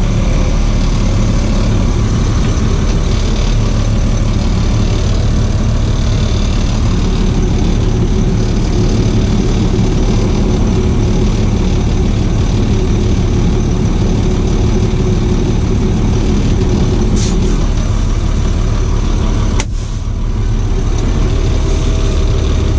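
Box truck's engine running steadily. Two sharp clicks come near the end, and the engine sound dips briefly just after the second.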